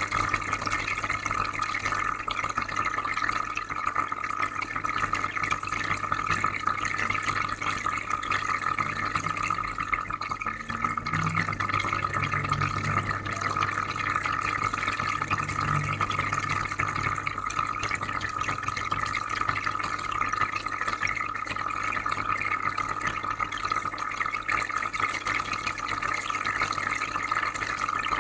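Aquarium filter running: a steady stream of trickling, bubbling water over a low, even electrical hum.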